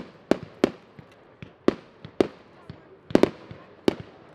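New Year's fireworks going off: a quick, irregular series of about a dozen sharp bangs, each followed by a short echo.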